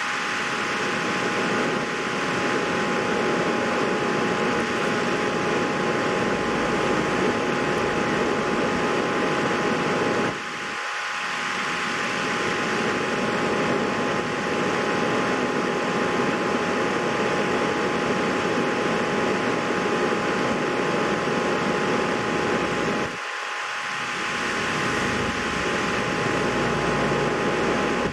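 Steady rushing noise like a fan or air blower, with a faint constant hum, broken by two short dips about ten seconds in and again near the end.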